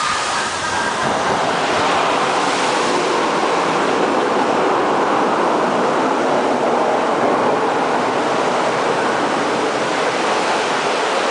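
Steady, loud rushing of water around the Maelstrom ride's boat, like surf and waves, with some wind.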